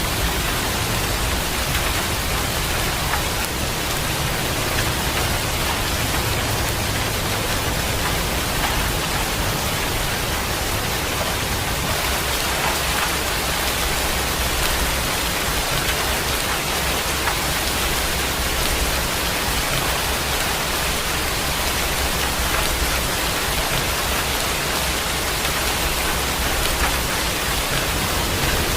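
Steady rain falling: an even, unbroken hiss, with a low rumble underneath that swells and fades.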